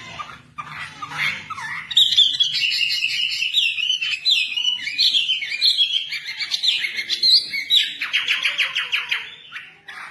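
Songbird singing a fast, varied song of whistled chirps and slurred notes, ending in a rapid trill, the continuous singing that bird keepers call 'gacor'.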